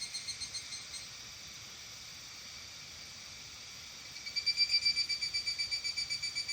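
An animal calling in a rhythmic pulsed trill of about six pulses a second, over faint evening background. The call stops about a second in and starts again, louder, a little after four seconds in.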